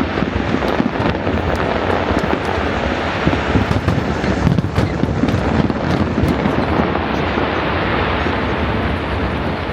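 Fireworks display going off continuously: a dense run of bursts and crackles with the booms blending into one steady din.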